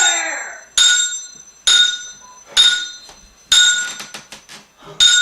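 Hard object struck repeatedly against something that rings with a metallic tone, about one strike a second, with a quick rattle of small clicks before the last strike.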